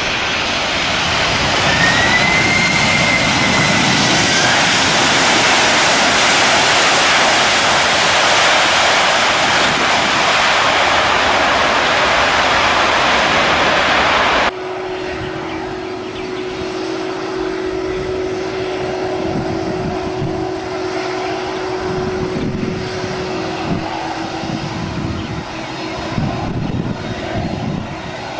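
Aircraft engines running loud, a broad noise that swells through the first half with a brief whistle-like glide about two seconds in. About halfway through it cuts off abruptly to a quieter aircraft engine sound carrying a steady low hum.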